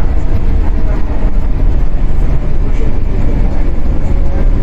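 Interior running sound of a 115-series electric multiple unit motor car: a steady, loud low rumble of wheels on the rails and the MT54 traction motors, with faint steady motor tones above it.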